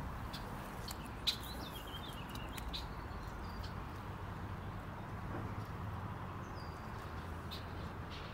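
A few faint bird chirps over a steady low rumble, with a single light click about a second in.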